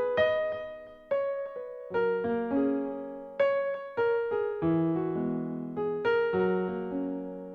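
Background piano music: gentle notes and chords struck about once a second, each ringing out and fading.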